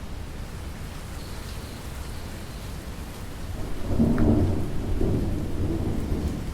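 Steady rain falling, with a low rumble of thunder that swells a little after halfway and then slowly eases.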